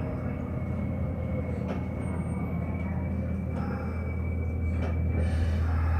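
Hanshin Electric Railway train running, heard from inside the front car: a steady low motor hum and wheel rumble, with a faint high steady whine, growing a little louder near the end.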